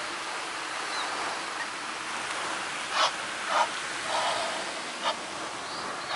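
Steady rushing background noise, with a series of short animal calls starting about halfway in, repeating every half second to a second.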